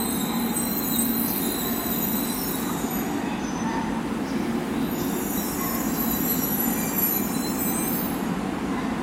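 E2 series Shinkansen moving slowly at the platform, with a steady running sound and thin, high-pitched squeals that fade a few seconds in and come back near the end.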